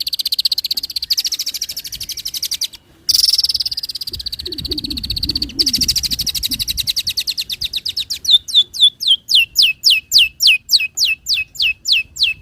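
Long-tailed shrike (cendet) singing. It starts with a fast, high rattling chatter, broken by a short gap about three seconds in. From about eight seconds it switches to a quick series of sharp downward-sweeping whistles, about five a second.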